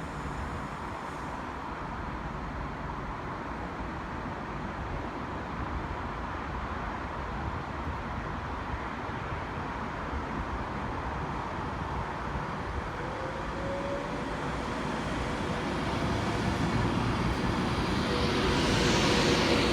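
A train's steady rumble growing slowly louder, swelling into a rushing noise near the end as it draws close.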